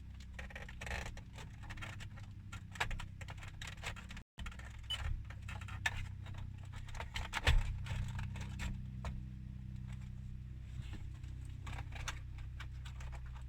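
Scattered clicks, taps and light rattles of plastic dash trim and wiring connectors being handled and plugged back in, over a low steady hum.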